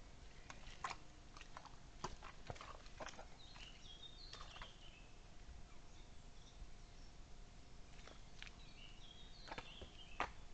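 A small songbird sings a short phrase of notes stepping down in pitch, about four seconds in and again near the end. Scattered sharp clicks and knocks sound throughout, the loudest near the end, over a faint steady hum.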